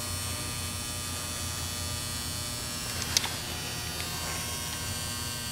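Ultrasonic parts cleaner running with a steady electric buzzing hum. A short sharp click sounds about three seconds in.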